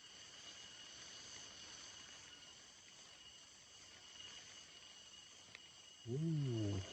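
Faint, steady insect chorus: several high, even tones held without pulsing or breaks.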